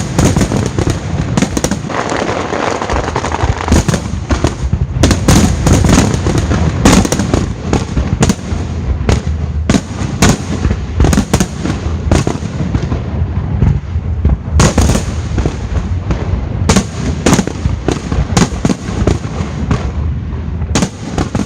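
Fireworks display: a dense barrage of shell bursts and crackling, bangs coming several a second over a steady low rumble, thinning out to scattered booms in the second half.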